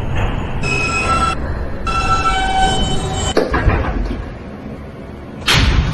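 Subway car's two-note door chime sounding over the train's rumble, then a knock as the doors shut. Near the end comes a sudden loud rush of noise.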